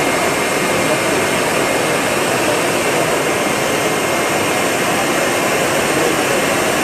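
Leister hot-air plastic welding tool blowing a steady stream of hot air, a constant rushing hiss with a faint whine, as it heats plastic for welding.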